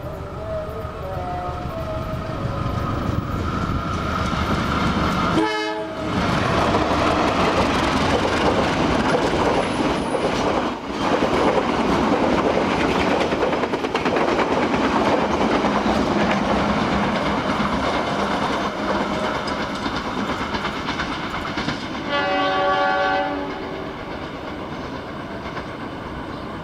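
Diesel-hauled passenger train approaching and passing close by, its wheels clattering over the rail joints for about fifteen seconds. The horn sounds briefly about five seconds in, and again for about a second and a half near the end as the noise dies down.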